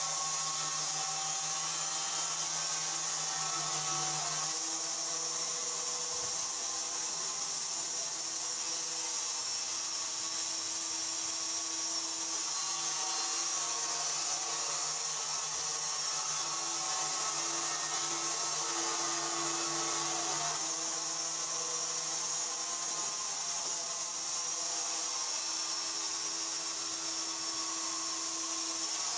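Sawmill saw cutting wood, running steadily, with its hum dropping out and coming back every few seconds.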